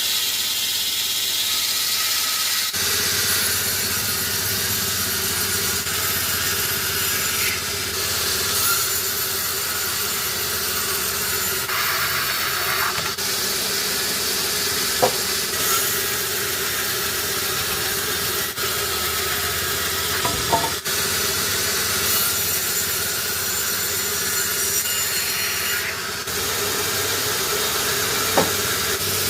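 Sawmill saw running steadily and cutting through a log, with a constant hum and a few brief clicks.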